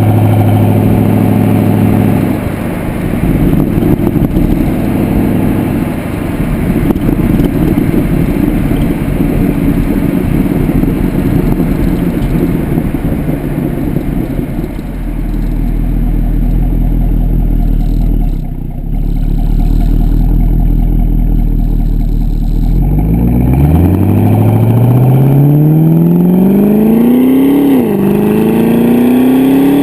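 Exhaust of a 2009 Pontiac G8 GXP's LS3 V8 through an aftermarket Corsa exhaust, heard from the rear of the car: a steady run with a dense rumble, then in the last quarter the revs climb hard under acceleration, drop sharply at an upshift and climb again.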